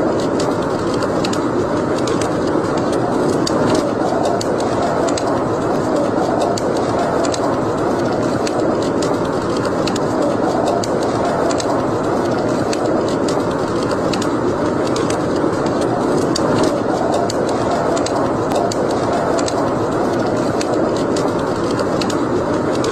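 Wood fire crackling and popping with frequent irregular sharp snaps over a steady rushing noise.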